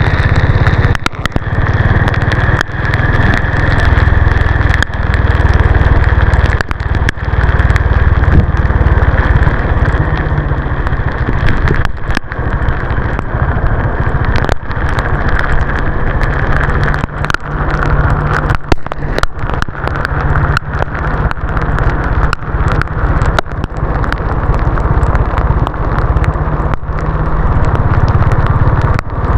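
Honda CB350 RS's single-cylinder engine running steadily under way, with road and wind noise and frequent short clicks and crackles.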